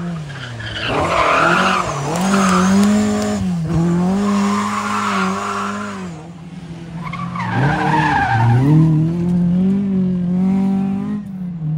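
Rally car engine revving up and down at high revs while its tyres squeal and skid on the tarmac, in two long stretches, as in a car doing spins.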